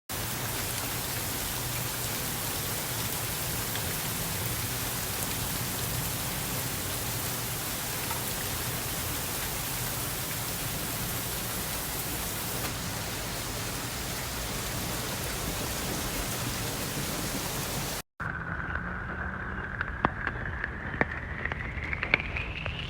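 Rain falling steadily, an even hiss. About 18 seconds in it cuts off abruptly; what follows is quieter, with scattered sharp ticks and a faint whistle-like tone that rises slowly in pitch.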